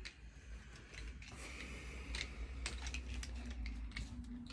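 Faint, scattered clicks and scrapes of small plastic toy vehicles being handled and washed, with a brief soft scrubbing hiss about a second and a half in.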